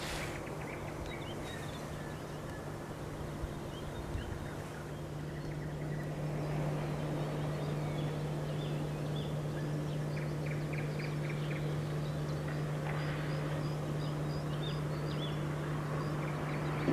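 Several songbirds singing and calling, short high chirps and trills, over a steady low hum of town traffic noise.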